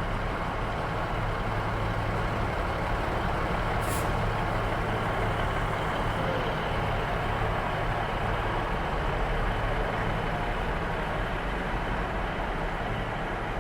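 Class 150 Sprinter diesel multiple unit standing at the platform, its diesel engines idling with a steady, unbroken rumble. A brief high hiss comes about four seconds in.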